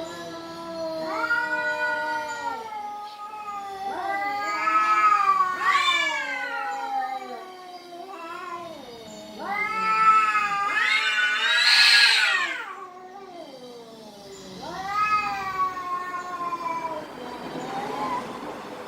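Domestic cats caterwauling: a series of five long, drawn-out yowls, each bending in pitch, the loudest one near the middle rising shrill. This is the sound of cats squaring off at each other.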